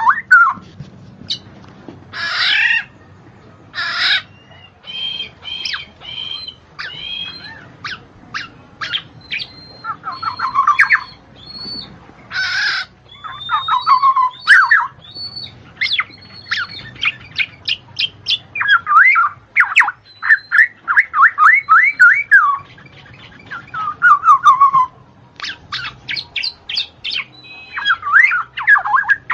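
A songbird singing a varied song of harsh chattering bursts, high whistled notes and quick rattling trills, in loud phrases broken by short pauses.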